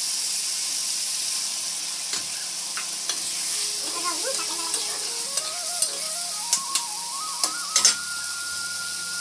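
Potato and squash pieces sizzling in hot oil in a kadai, stirred with a metal spatula that scrapes and clicks against the pan now and then. From about four seconds in, a faint thin tone in the background wavers and steps upward.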